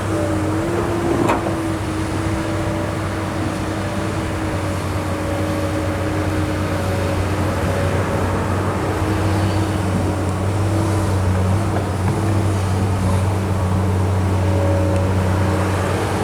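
Kobelco SK200 excavator's diesel engine running steadily under load, with a steady whine over the low hum and a single sharp clank about a second in.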